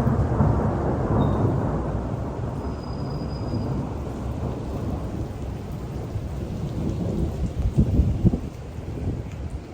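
Strong gusty storm wind buffeting the microphone: a loud, low, wavering rush, with a few harder gusts about eight seconds in.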